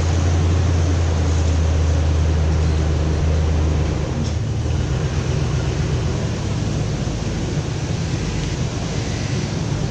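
Ford 4.6-litre Triton V8 idling steadily just after a cold start, following two months of sitting; the low engine hum eases slightly about four seconds in. Wind noise on the microphone runs underneath.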